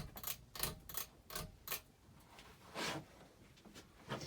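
Hunter Greenwich ceiling fan's spinner motor running on low speed with a faint steady hum, which the owner puts down to the fan's mounting metal touching the metal electrical box. Irregular light clicks and ticks sound over the hum.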